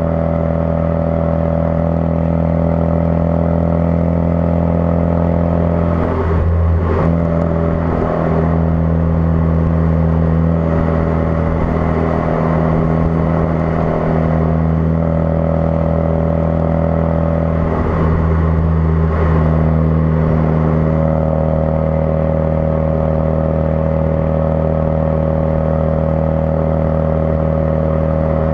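Ford Focus RS's turbocharged 2.3-litre four-cylinder running at a steady engine speed through a custom-fabricated exhaust, a constant even drone. It wavers briefly about six and eighteen seconds in.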